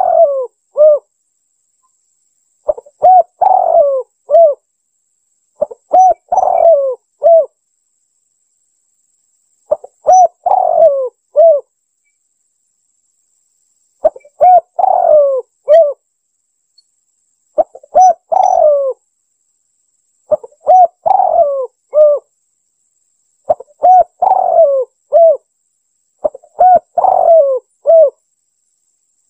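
Spotted dove cooing: its repeated phrase of a few bending coo notes sounds about every three seconds, nine times, with short silences between.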